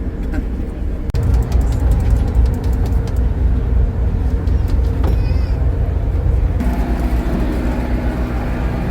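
Steady low rumble of a passenger ferry's engines, with a short high wavering squeal about five seconds in.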